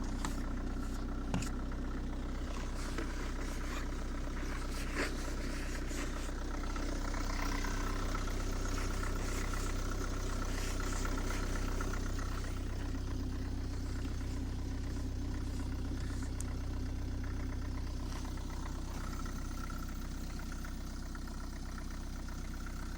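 Opel Meriva's 1.7 CDTI four-cylinder diesel idling steadily with its engine still cold from a start at −19 °C. There are a couple of light clicks in the first few seconds.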